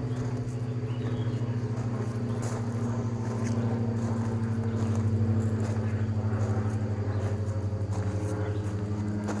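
A motor running steadily with a low pulsing hum, its pitch stepping up slightly near the end.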